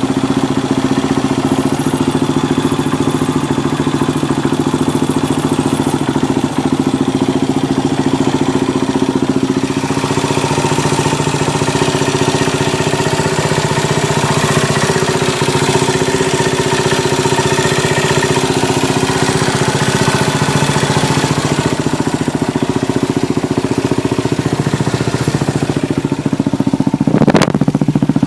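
Yamaha SR single-cylinder four-stroke motorcycle engine running steadily through its exhaust muffler, with one quick sharp rev blip near the end.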